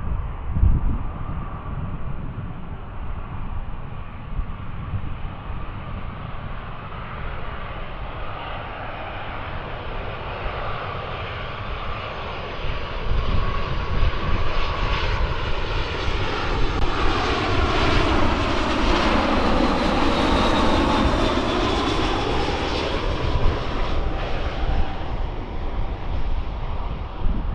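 Jet airliner passing by. Its engine noise builds over several seconds, is loudest a little past the middle with a whine that falls in pitch, then fades. Wind rumbles on the microphone underneath.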